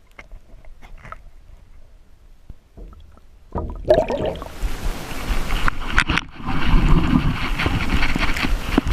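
A few faint clicks, then about three and a half seconds in a sudden steady rushing noise starts: the small jon boat moving across the lake water, with wind on the microphone.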